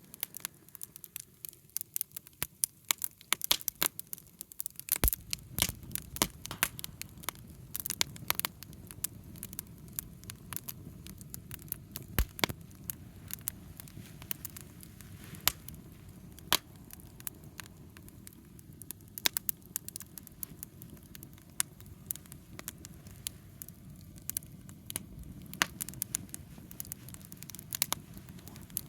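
Wood campfire crackling, with many sharp, irregular pops over a low steady rumble.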